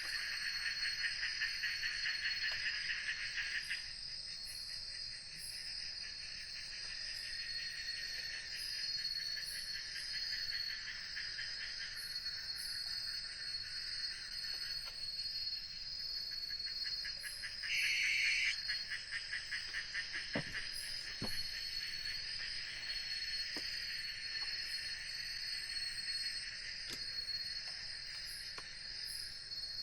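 Insect chorus of crickets: pulsing trills that swell and fade over a steady high-pitched drone, with a brief louder buzz about eighteen seconds in.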